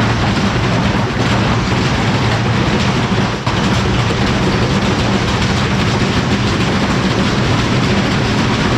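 Whirlpool front-load washing machine in a violent out-of-balance spin: a loud, continuous rattling clatter and rumble of the shaking cabinet, with a brief dip about three and a half seconds in.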